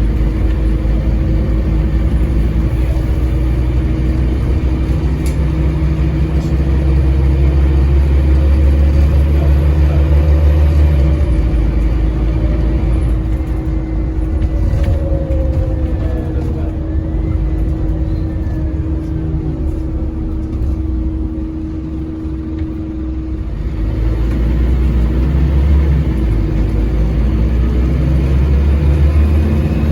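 Diesel engine of a Scania N230UD double-decker bus heard from on board, pulling hard under full throttle, then dropping away about eleven seconds in as the bus eases off, before pulling hard again in the last few seconds.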